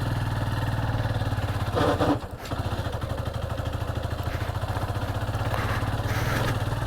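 Motorcycle engine running steadily at low speed with an even exhaust pulse; the engine note dips briefly about two seconds in.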